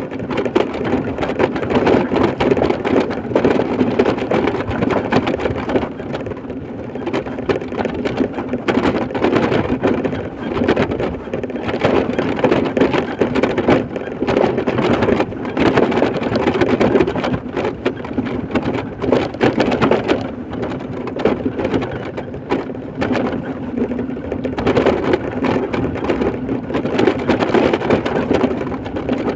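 A vehicle driving along a rough road, with steady road and running noise full of small knocks and rattles.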